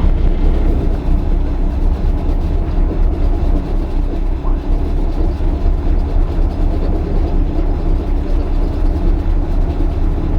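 The boat's inboard diesel engines running steadily at idle, a loud, continuous low rumble heard inside the pilothouse.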